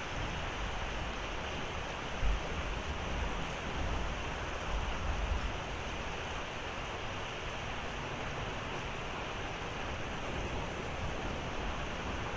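Heavy rain pouring steadily, with a low rumble that comes and goes underneath.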